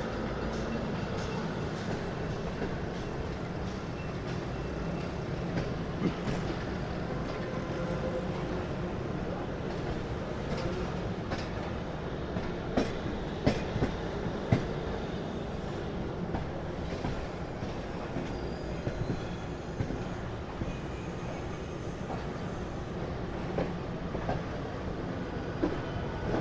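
Pakistan Railways passenger train running along the track: a steady rumble with irregular clicks and knocks from the wheels over the rails, a cluster of sharper knocks about halfway through.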